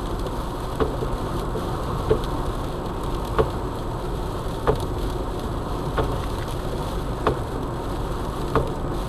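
Steady road and engine noise heard inside a moving car's cabin on a sleet-covered highway, with a short knock about every 1.3 seconds, like windshield wipers reaching the end of each sweep.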